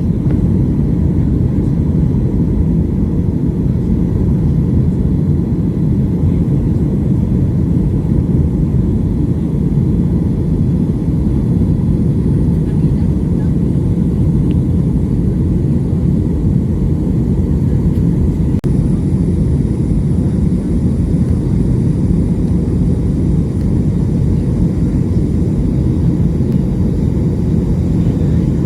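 Airplane cabin noise: the steady low rumble of engines and airflow heard from inside the passenger cabin, holding an even level.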